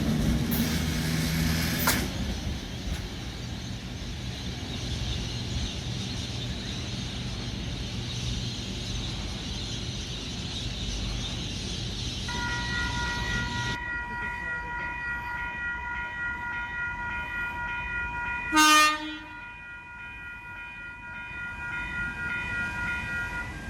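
Red Rattler heritage electric suburban train running on the rails, with a steady rumble that stops abruptly about halfway through. A steady high whine follows, and one short horn blast sounds about three quarters of the way in.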